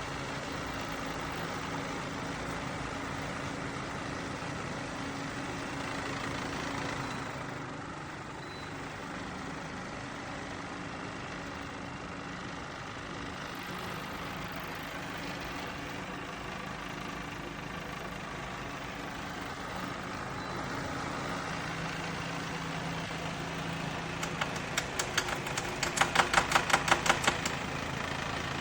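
Midea evaporative air cooler's fan running with a steady low hum and airflow noise, easing slightly about seven seconds in. Near the end a quick run of sharp clicks rises over it.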